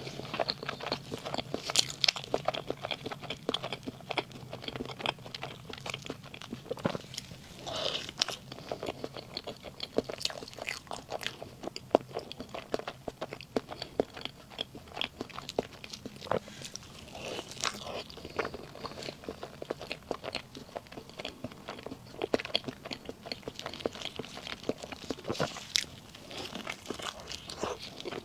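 Close-miked eating of soft cream cake: a steady run of bites, wet chewing and small mouth clicks and smacks.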